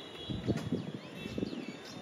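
Small birds chirping, a quick run of short high notes that each fall in pitch, over an irregular low rumble of outdoor background noise.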